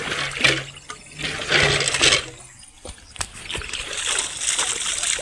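Water splashing and trickling in uneven surges, with a couple of sharp knocks about three seconds in.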